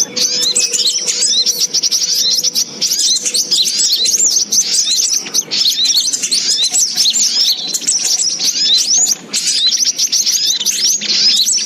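Bird-lure recording of sogok ontong (brown-throated sunbird) calls: a dense, nonstop stream of quick, high chirps and twitters from several birds at once.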